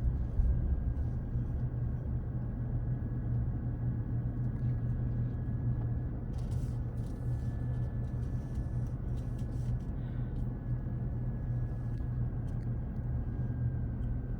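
Steady low rumble of a car driving down a winding mountain road, heard from inside the cabin, with a faint thin whine held steady above it.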